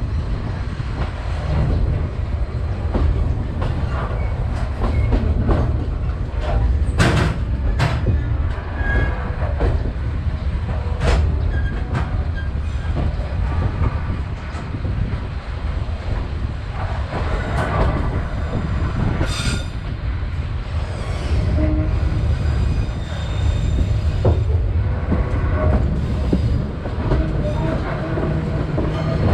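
Passenger train running along the track: a steady low rumble with sharp clicks of the wheels over the rails, a few standing out about a quarter, a third and two thirds of the way through.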